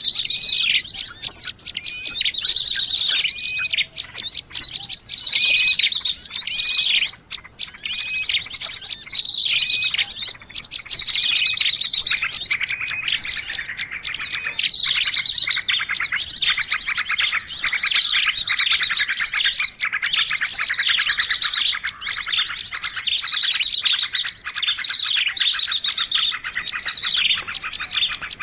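Dense, overlapping chirping and twittering of many small songbirds, a bird-lure (pikat) recording meant to draw small birds in. Rapid trills and short whistled notes pile over one another almost without a break.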